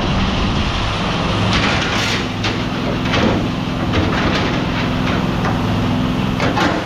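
A series of irregular knocks and clatters, like scrap items being handled and set down, over a steady low engine or machine hum.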